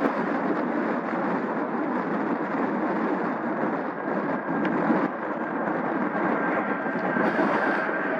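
Jet noise from an Airbus A320neo's Pratt & Whitney PW1100G geared turbofans as the airliner lands: a steady rushing sound, with a faint high whine coming in about halfway through.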